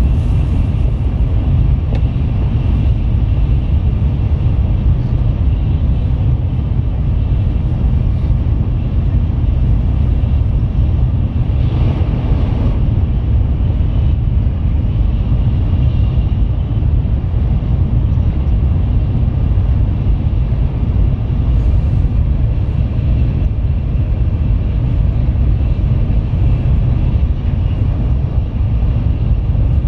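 Tokaido Shinkansen Nozomi bullet train running at speed, heard from inside the passenger cabin: a steady low rumble with a rushing noise over it, briefly louder about twelve seconds in.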